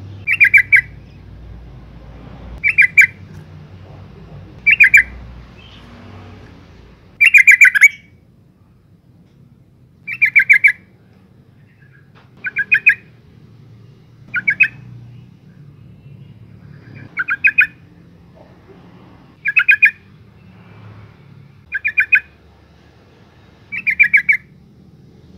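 A female yellow-vented bulbul calling: a short burst of three or four rapid, bright notes, repeated about every two to three seconds, eleven times in all.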